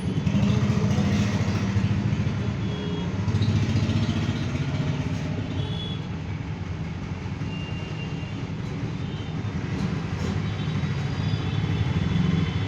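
Honda Shine BS6 motorcycle engine running steadily with the chain turning, being checked for chain knock after the worn front chain guide was refitted reversed. Louder in the first few seconds and again near the end.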